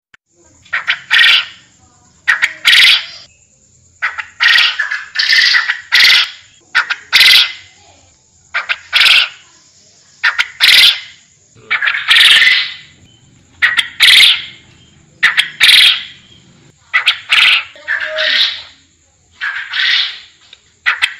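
Forest quail (puyuh hutan) calling over and over, loud, short harsh calls about every second or so, some in quick pairs. A faint steady high whine sits underneath.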